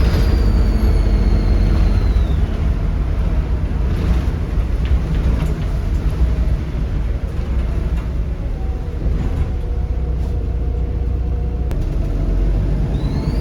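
Volvo B7RLE bus's 7.3-litre Volvo D7C diesel engine running with a steady low rumble. A high turbo whistle falls in pitch and fades over the first two seconds, and a rising turbo whistle starts near the end as the engine spools up again.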